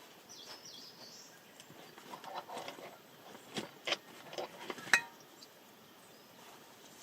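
A small bird chirps briefly near the start. Then comes a scatter of clicks and knocks, the sharpest about five seconds in with a short ring.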